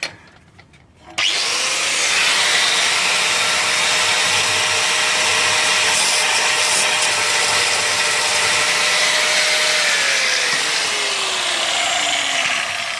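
Angle grinder spinning up about a second in and grinding a snapped hardened-steel easy out flush with an exhaust stud flange, a steady rasping grind over the motor's whine; near the end the grinder is released and winds down.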